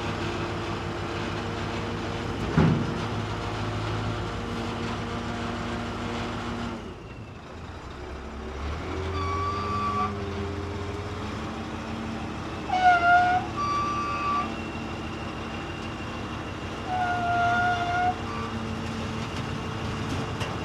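Scania 143 V8 diesel engine running with the power take-off engaged, driving the tipper's hydraulic pump. There is a knock about two and a half seconds in, the engine note drops about seven seconds in and picks up again, and short tones sound several times in the second half.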